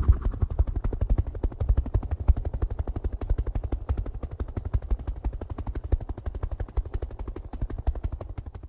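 Tractor engine running with a rapid, even putt-putt of about ten beats a second, fading away toward the end.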